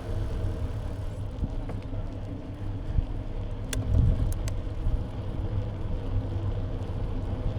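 Steady low rumble of a bike riding along, heard through a camera clamped to the bike's side, with a few sharp clicks near the middle.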